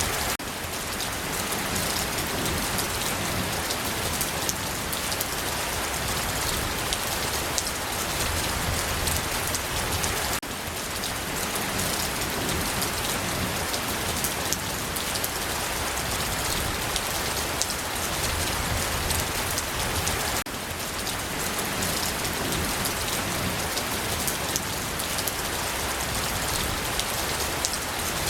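Steady, heavy rain falling on a surface, a dense hiss of countless drops with fine pattering ticks. The level dips slightly about every ten seconds and picks straight back up.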